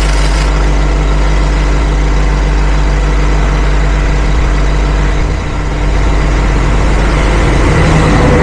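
Engine idling steadily, with a brief dip in level about five seconds in.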